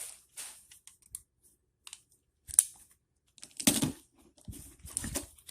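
Cardboard box and packing being handled as the contents are pulled out: scattered rustles, scrapes and knocks, with a few louder ones in the second half.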